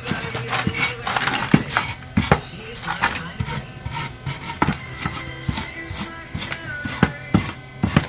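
Hand tool scraping and rasping into exhaust pipe in irregular, uneven strokes while cutting a small relief notch in the pipe.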